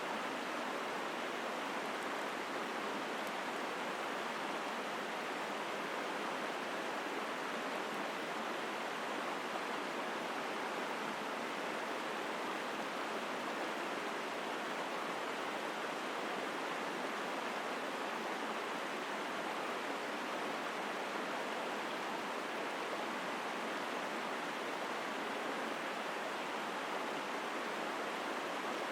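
Small mountain river flowing strongly through forest: a steady, unbroken rush of water.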